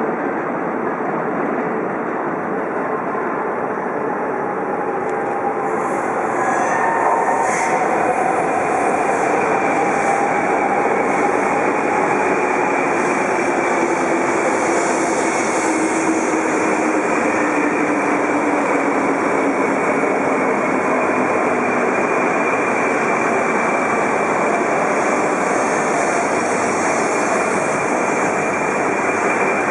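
Shinkansen bullet train running along the platform track with a loud, steady rushing noise, and a motor whine that glides slowly down in pitch over about ten seconds, as a train does when slowing into the station.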